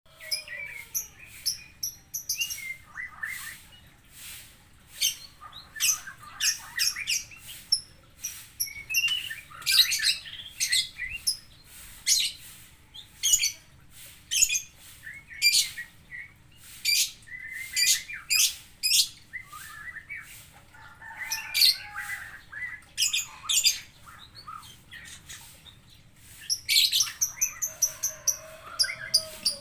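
A kept songbird singing: a long run of short, sharp, high chirps and warbled phrases, repeated in quick succession, with a busier stretch of song near the end.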